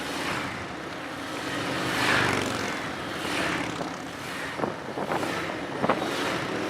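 Several police motorcycles riding a figure-eight formation, their engines swelling and fading as the riders pass one after another.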